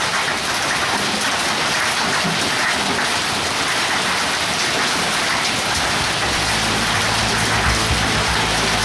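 Hail and heavy rain pelting down, a dense steady hiss of countless small impacts. About six seconds in, a low steady hum joins underneath.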